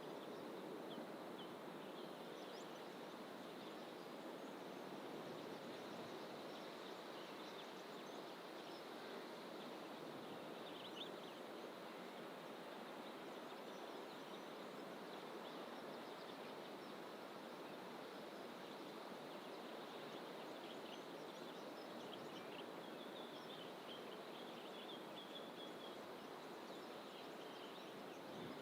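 Faint, steady rushing ambience of open bush, with scattered distant bird calls over it and a brief run of high chirps about three-quarters of the way through.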